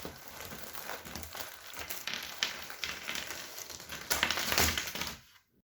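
Cardboard jigsaw puzzle pieces being stirred and shuffled by hand: a dense, irregular rustle of many small clicks, louder for a moment about four seconds in, then stopping.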